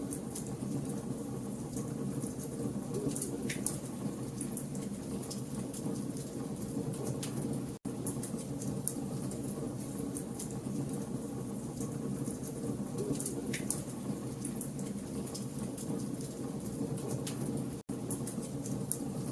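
Burning logs in a wood fire: a steady low rush with frequent sharp crackles and pops. The sound cuts out for an instant twice, about ten seconds apart.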